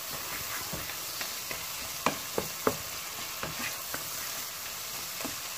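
Soaked dried Bombay duck (loitta shutki) frying in oil with onions and spices in a pot, sizzling steadily. From about two seconds in, a utensil stirring the pot knocks against it several times.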